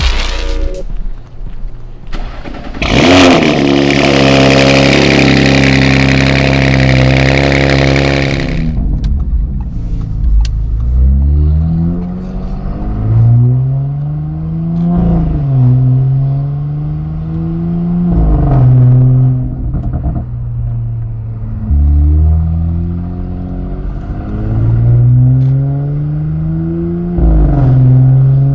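Stage 2-tuned Audi RS5's twin-turbo V6 accelerating hard through the gears, heard from inside the cabin. The engine note climbs in pitch through each gear and drops at each upshift, about four times, after a loud, steady stretch of engine noise in the first several seconds.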